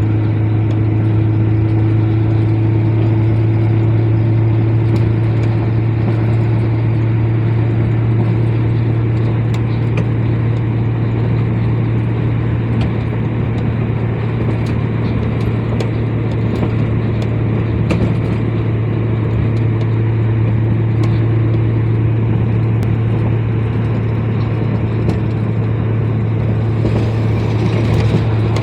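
Heavy truck driving at a steady pace: a steady low engine drone over road and tyre noise.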